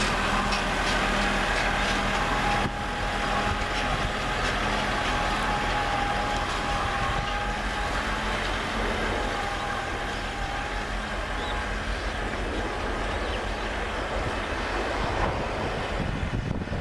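Lovol M704 tractor's diesel engine running steadily under load while ploughing, with a thin whine over the engine note. It drops a little in loudness about three seconds in.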